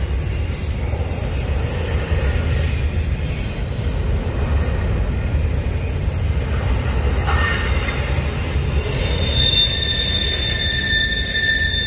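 Double-stack intermodal well cars of a Union Pacific freight train rolling past with a steady low rumble from the wheels on the rails. About three-quarters of the way in, a high steady squeal from the wheels sets in and holds.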